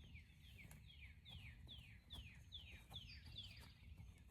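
A bird repeating quick, falling whistled notes, about two or three a second, faint, with the series stopping shortly before the end. A low rumble runs underneath.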